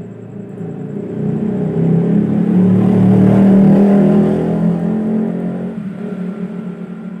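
A motor vehicle passing by: its engine hum grows louder, peaks about halfway through, then fades away.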